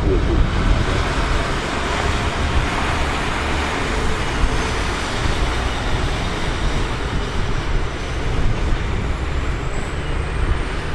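A train running past, a steady rumble and rushing noise with no clear start or stop.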